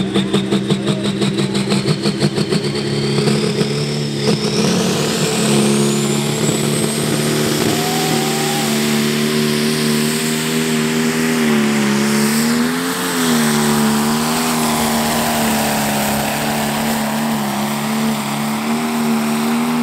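Prostock pulling tractor's single-turbo diesel engine working hard under load. A high turbo whistle rises over the first several seconds, then the engine drones steadily. Its pitch sags and wavers briefly around the middle and climbs again near the end.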